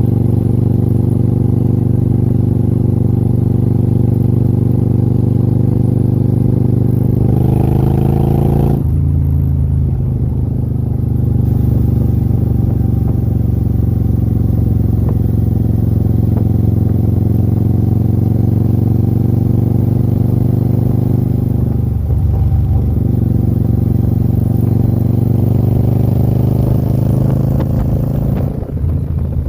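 Motorcycle engine running steadily under way. About seven seconds in it revs up, then drops suddenly at a gear change; it dips again briefly a little past twenty seconds in.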